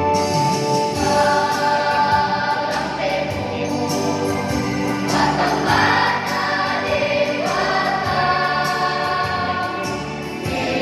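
A choir of school students singing together in held, sustained chords that change every second or two.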